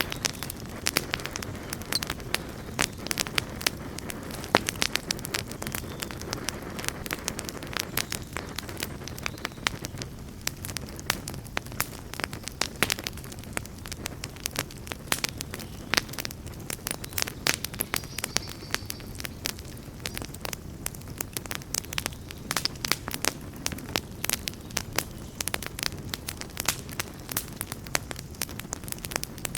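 Wood campfire burning with a steady low rumble and irregular sharp crackles and pops throughout.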